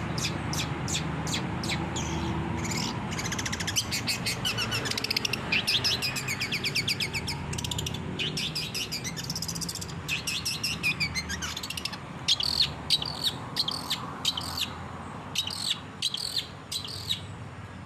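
Long-tailed shrike (cendet) singing: fast runs of sharp, high chirps and trills. The chirps come in louder bursts in the second half, over a steady low background noise.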